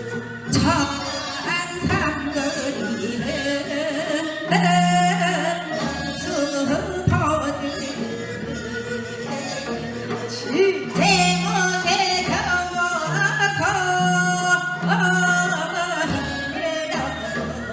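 Korean traditional folk music playing live: a wavering melodic line over a steady accompaniment, with a few sharp drum strokes.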